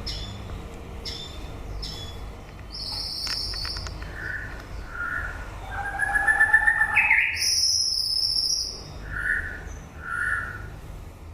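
White-rumped shama singing a varied run of clear whistled notes, with a loud rapid trill about halfway through and sharp high notes, over a steady low background rumble.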